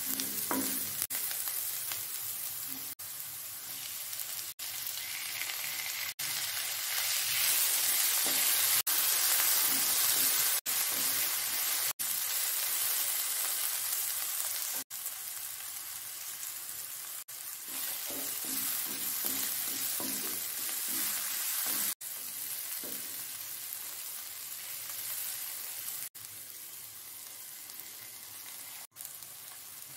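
Chopped onions and tomato sizzling in hot oil in a nonstick pan as they are stirred with a wooden spatula. The hiss is steady, loudest about a third of the way through, and is briefly cut off every few seconds.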